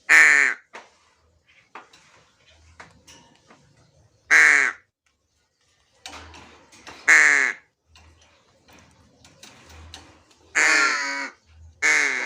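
A crow cawing: four loud, harsh caws a few seconds apart, the fourth drawn out longer, and a fifth beginning at the very end.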